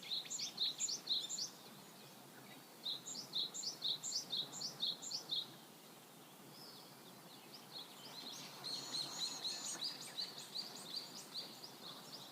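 A bird calling: quick runs of short, high repeated notes, one at the start and another about three seconds in, then a faster run of notes in the last few seconds, over faint outdoor background noise.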